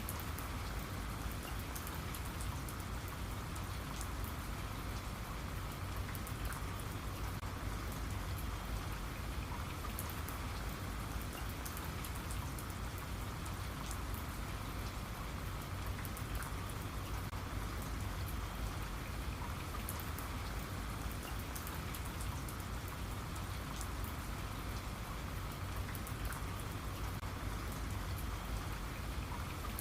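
Steady rain falling, with many small drop patters over a low rumble.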